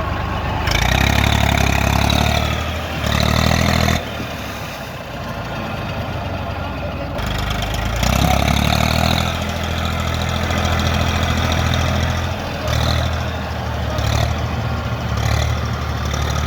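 Tractor diesel engine running, revving up loudly twice: once about a second in for about three seconds, and again around eight seconds in for about four seconds.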